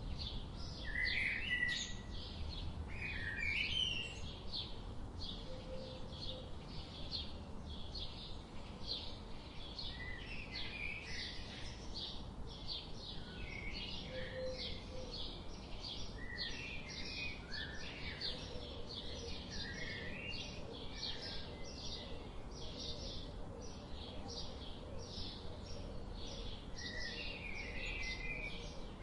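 Songbirds singing, with a rapid, evenly repeated series of short high chirps, about four a second, over scattered lower warbled phrases from other birds, above a low steady rush of a river.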